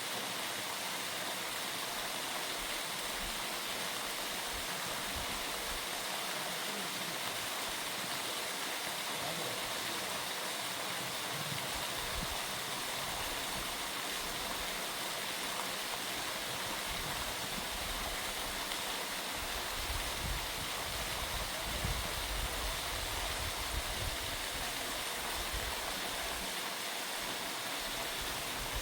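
Steady rush of falling water from a waterfall, with a few low rumbles mixed in partway through.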